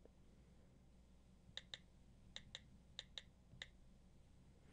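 iPad on-screen keyboard key clicks as letters are typed: about seven faint, short clicks in quick, uneven succession over a near-silent background.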